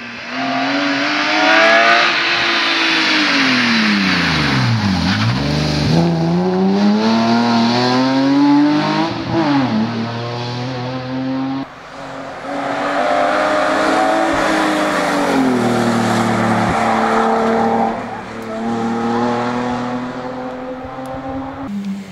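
BMW E30 rally car engine under hard driving, its pitch climbing and falling repeatedly through gear changes and lifts. About five seconds in the revs drop steeply and then climb again. Near the middle the sound cuts abruptly to another stretch of high-revving acceleration.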